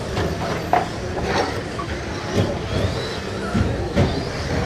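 Radio-controlled stock trucks racing on a track: a steady clattering din of motors and tyres, broken by repeated sharp knocks and a few faint whines.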